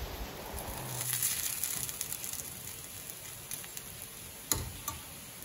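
Aval (flattened-rice) upma frying in a steel kadai: a soft, steady sizzle with a steel ladle stirring, and one sharp tap about four and a half seconds in.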